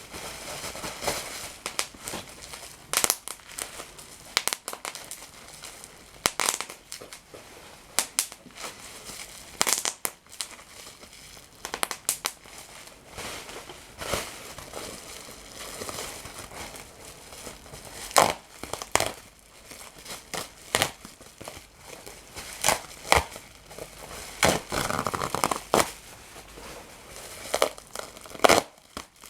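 Crinkly material being crumpled and crushed, with irregular sharp crackles.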